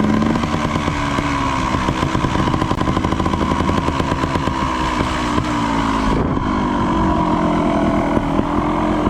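Small motorbike engine running at speed, its pitch rising and dipping a little with the throttle. The hiss above it cuts off abruptly about six seconds in.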